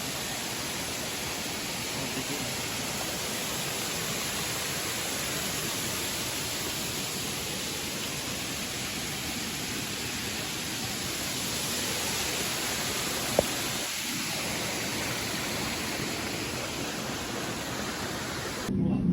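Waterfall: a steady rush of falling water, with a single sharp click about thirteen seconds in.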